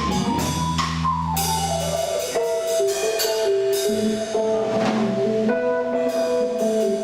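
Band music without vocals: a drum kit keeps a steady beat under held, changing notes from pitched instruments.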